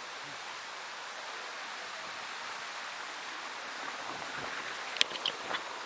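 Steady rush of flowing water, a stream or waterfall, with a sharp click about five seconds in followed by a couple of fainter ticks.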